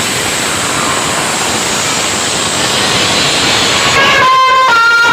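Loud rushing, hiss-like noise effect played through a DJ sound system. About four seconds in it gives way to a high synthesised melody of stepping tones as the music starts.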